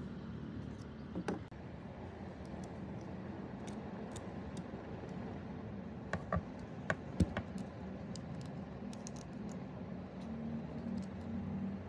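A handful of sharp clicks and taps of small hard objects, one about a second in and a cluster about halfway through, over a steady low hum.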